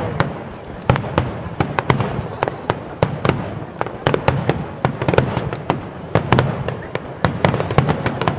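Aerial fireworks going off in a rapid barrage: many sharp bangs, several a second, over continuous crackling.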